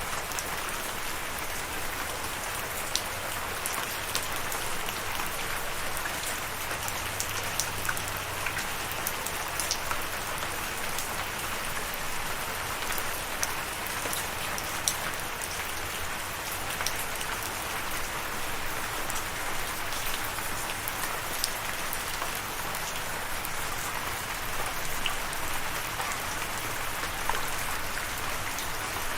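Steady rainfall with individual drops pattering, a continuous hiss dotted with scattered sharp drop ticks.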